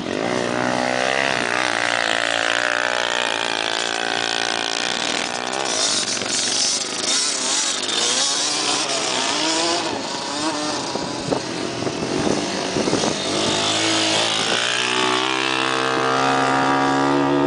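Dirt bike engine revving up and down as it rides over rough ground, its pitch rising and falling constantly, with a few sharp knocks about two-thirds of the way in and a steadier high rev near the end.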